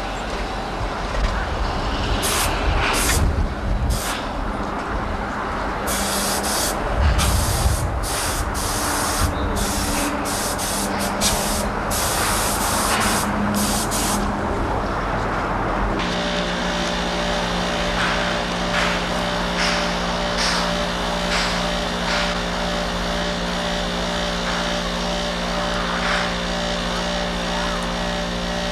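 Train running noise with repeated short bursts of loud hissing from air or steam. About halfway through it changes abruptly to a steady pitched mechanical hum.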